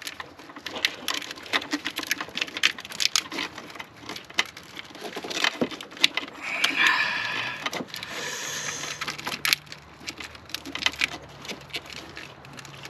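Close handling noise from a windshield washer hose being worked through a tight space in a car: many sharp clicks and knocks of plastic and rubber, with a longer scraping rub a little past halfway.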